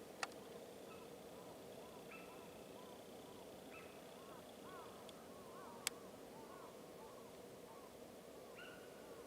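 Faint, high, whistle-like calls of sika deer: several short held notes a few seconds apart. A run of small rising-and-falling chirps comes in the middle, and there are two sharp clicks, one near the start and one past the middle.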